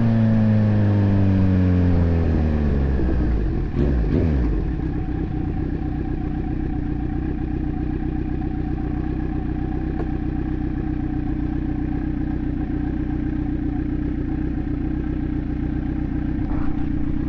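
Kawasaki Z900's inline-four engine through an AR aftermarket exhaust. The revs fall steadily over the first four seconds, then it settles into a steady idle.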